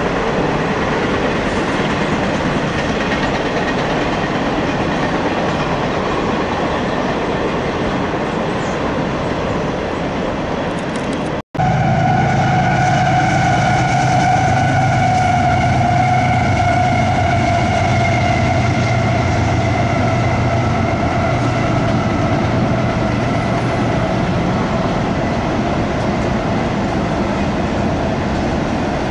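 Double-stack intermodal freight train rolling past, with a steady rumble and clatter of wheels on the rails. After a sudden break about eleven seconds in, a diesel locomotive placed mid-train passes, adding a low engine drone and a steady whine over the wheel noise.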